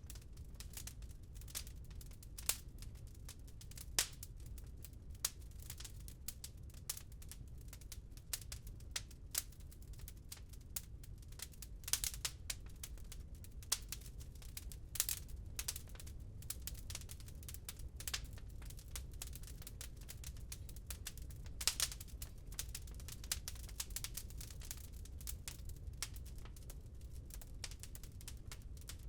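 Wood fire crackling in a fireplace: irregular snaps and pops, a few louder than the rest, over a low steady rumble.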